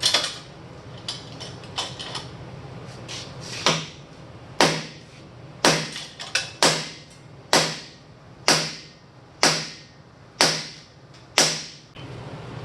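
Hammer striking steel: a few lighter taps, then a steady run of about eight hard blows roughly a second apart, each ringing briefly.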